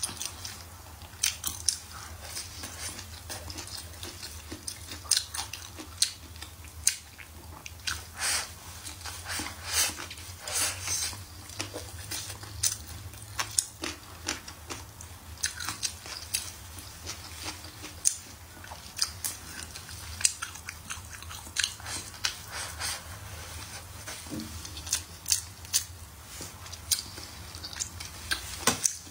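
Close-miked chewing and biting of stir-fried green peppers: irregular wet mouth clicks, smacks and soft crunches, over a faint steady low hum.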